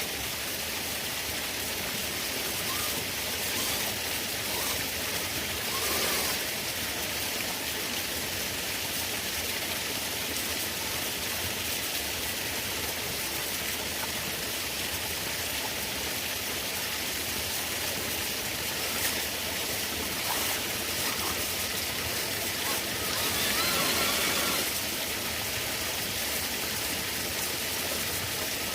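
Steady rush of a stream and small waterfall, a constant hiss of flowing water, briefly a little louder near the end.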